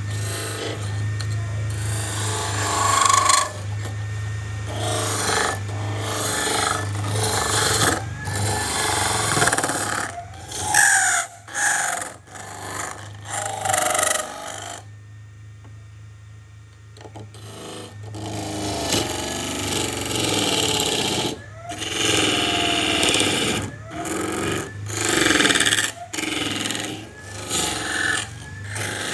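Tool worked across wood in repeated, irregular rubbing and scraping strokes, with a low steady hum underneath. The work stops for about three seconds around the middle, then carries on.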